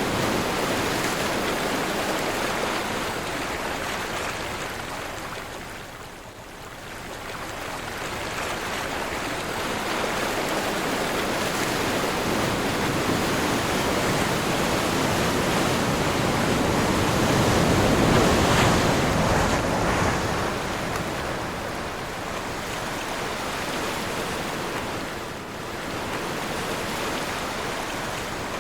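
Sea surf with wind: waves breaking and washing in, swelling and ebbing. There is a brief lull about six seconds in, and the biggest surge comes about two-thirds of the way through.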